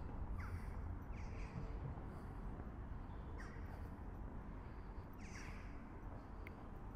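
A bird, crow-like, giving about four short calls, each falling in pitch, a second or two apart, over a steady low rumble.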